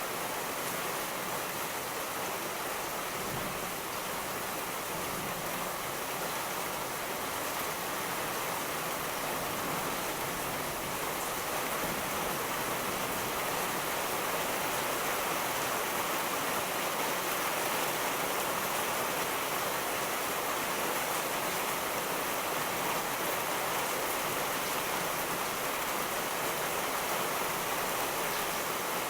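Steady heavy rainfall, an even hiss of rain with no distinct thunderclaps.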